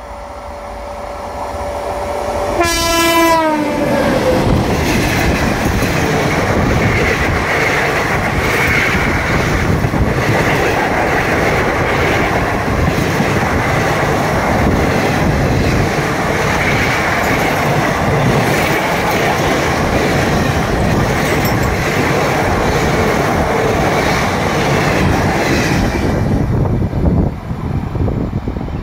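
Indian Railways electric locomotive sounding its horn on approach, the horn's pitch dropping as it passes about three seconds in. Then the long passenger train goes by at speed, with loud, steady wheel and coach noise for over twenty seconds that falls away quickly near the end as the last coach passes.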